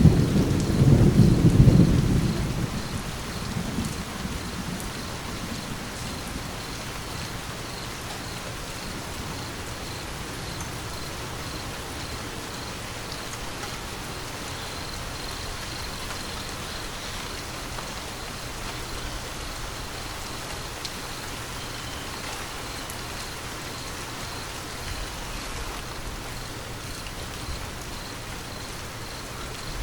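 Steady rain falling, with a low rumble of thunder at the start that fades away within about three seconds.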